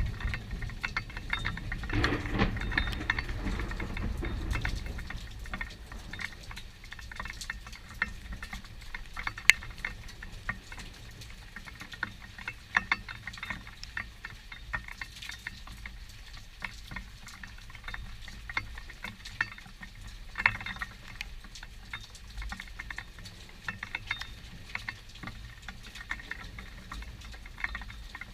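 Rain pattering during a thunderstorm, with many sharp drop ticks close by. A low rumble of thunder runs through the first few seconds and fades out.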